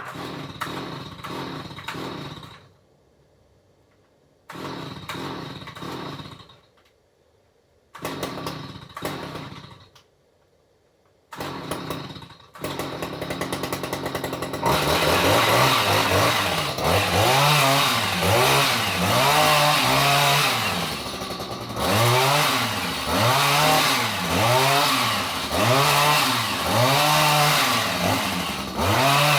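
Chainsaw engine running in a few short bursts with quiet gaps in between, then running continuously from about halfway through, its pitch rising and falling about once a second as it is revved up and down.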